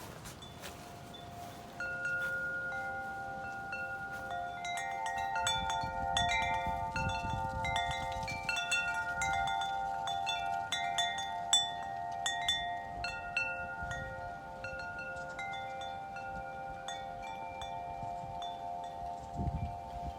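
Wind chimes ringing in gusty wind. The first tones come about two seconds in, then many overlapping struck notes ring on, with a wind rumble on the microphone.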